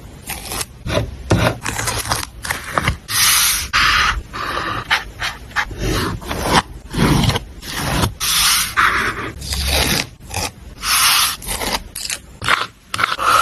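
Close-miked paper collage journaling: paper pieces being scraped, rubbed and smoothed down in a quick series of short, irregular strokes, with a few longer swipes.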